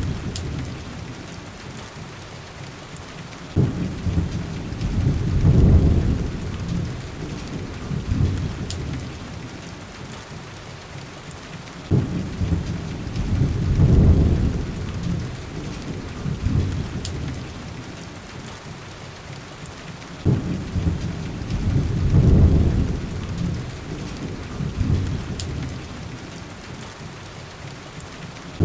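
Heavy rain on a window pane, steady throughout, with three low thunder rumbles about eight seconds apart, each starting suddenly, swelling and fading away.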